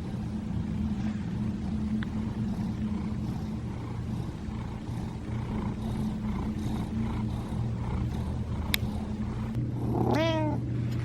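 A kitten meows once near the end, a single call that rises and then falls in pitch, over a steady low hum.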